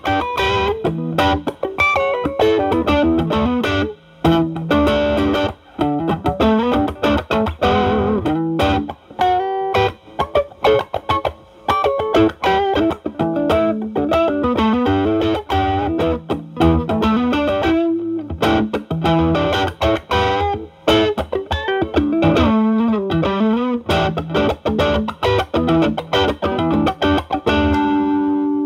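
Stratocaster electric guitar through a Ceriatone Centura Klon-clone overdrive pedal and a Marshall Valvestate amp's drive channel, playing improvised blues lead lines with string bends and occasional chords. The pedal's gain is at 8, cleaned up to a lighter, mildly overdriven tone.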